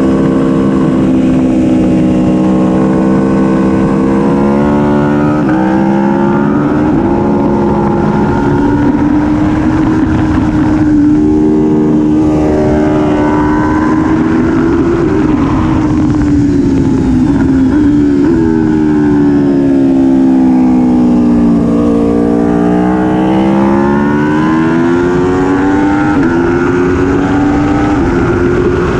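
Aprilia Tuono V4 1100 Factory's V4 engine heard from on board at moderate revs on track. The engine note rises and falls with the throttle, with a gear change about five seconds in, a long drop around halfway and again about two-thirds of the way through, then a climb, over steady wind rush.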